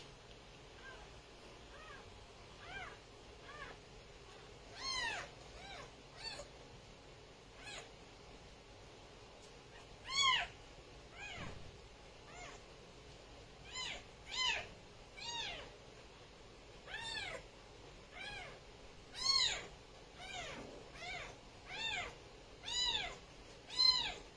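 Kitten mewing over and over: short, high-pitched mews that rise and fall in pitch, coming every second or two at irregular intervals, some much louder than others.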